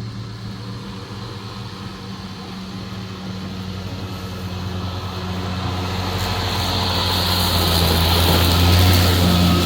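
Lawn mower engine running at a steady pitch, growing gradually louder over several seconds.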